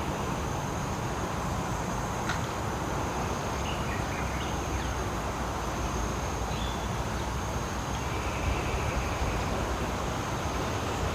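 Steady rumble of distant road traffic mixed with wind, with a thin, steady high whine and a few faint chirps above it.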